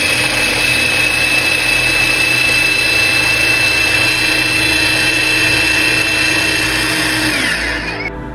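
Electric food processor running steadily as it chops boiled eggs fine, with a steady motor whine. It winds down and stops near the end.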